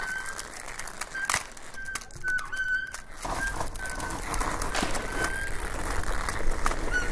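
A small bird chirping: short, even notes repeated many times. A few sharp clicks stand out, and a low rumble comes up about three seconds in.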